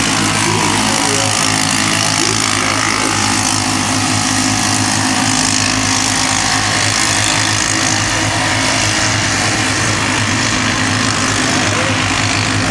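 Small engines of a field of kids' mini race trucks running steadily and loudly at race pace.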